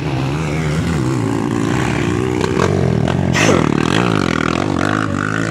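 Enduro dirt-bike engines revving up and down during a race, with the loudest moment about three and a half seconds in.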